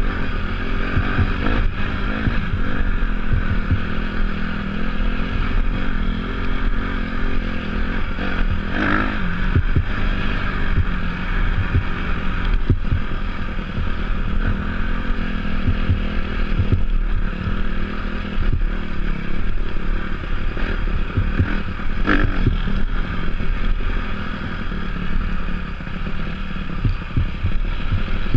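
Dirt bike engine running steadily under way on an off-road ride, with a couple of short rises in revs. Wind buffets the helmet or bike camera's microphone, and there are low knocks from the rough ground.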